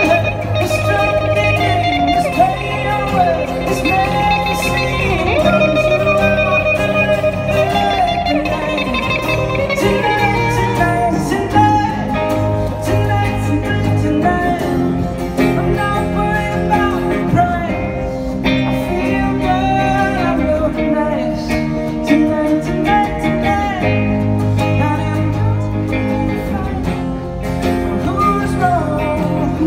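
Live rock band playing a guitar-led passage with bending melodic lines over a steady bass part, without sung words.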